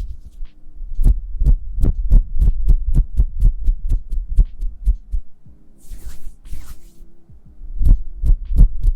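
Hands making soft, quick taps close to the microphone in an even rhythm of about four thumps a second. The tapping pauses a little after five seconds, where there are two brief swishes, and starts again near the end.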